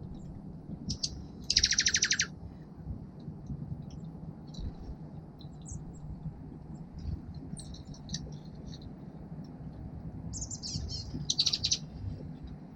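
Small songbirds at a feeder calling: a loud, harsh buzzy call about a second and a half in, scattered high chirps, then a burst of chips and another harsh buzzy call near the end. A steady low hum runs underneath.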